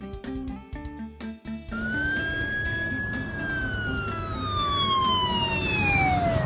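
Short plinking music notes, then about two seconds in an emergency-vehicle siren wails: one long rise, a brief hold at the top, and a slow fall, with background music going on beneath it.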